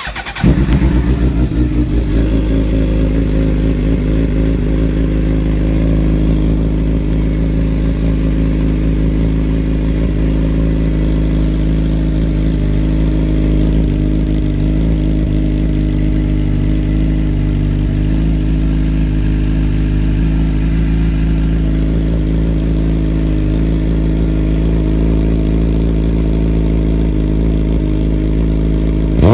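2011 Suzuki GSX-R750's inline-four, breathing through a Two Brothers Black Series shorty exhaust with the catalytic converter cut out, starts from cold about half a second in and settles into a steady idle.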